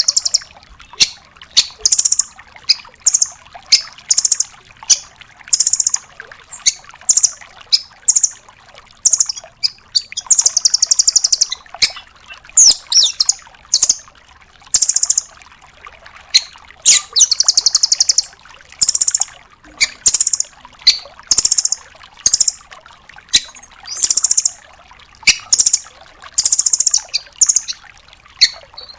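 Velvet-fronted nuthatch (rambatan doraemon) calling over and over with sharp, high-pitched notes about once a second. These are broken by longer, rapid rattling trills, the loudest about ten seconds in and again near eighteen seconds.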